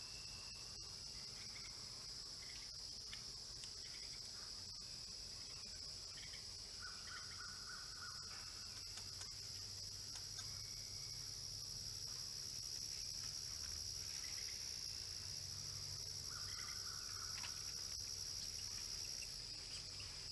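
Steady high-pitched insect chorus in a field, with a few short, faint calls over it, twice as brief buzzy notes lasting about a second.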